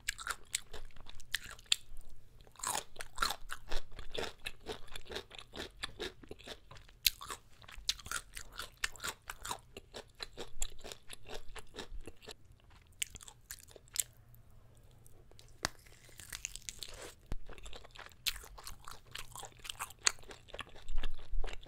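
A person chewing food close to the microphone, with many short crunching bites. The chewing thins out for a few seconds around the middle, then picks up again.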